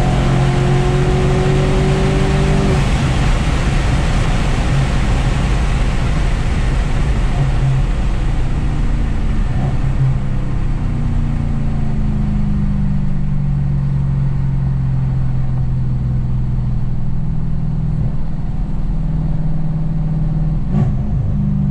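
Audi S6 engine with catless downpipes and X-pipe pulling hard, its pitch rising for about the first three seconds. It then settles into a steady drone that slowly drops in pitch as the car slows, with rushing wind and tyre noise fading away.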